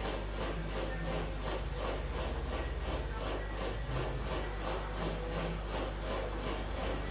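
Rainforest insect chorus: rapid, even pulsing of about five beats a second over a steady high whine.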